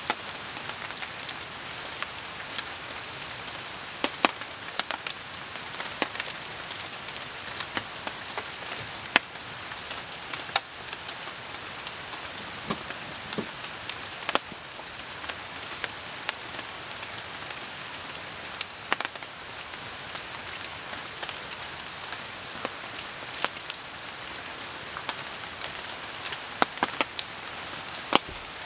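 Steady rain hiss with a campfire crackling, sharp pops and snaps scattered irregularly through it, over the constant rush of a river.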